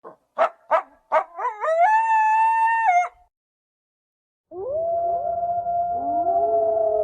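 Canine howling sound effects: a few short yelps rise into one held howl that cuts off suddenly, then after a short silence several howls start together and overlap as a howling chorus.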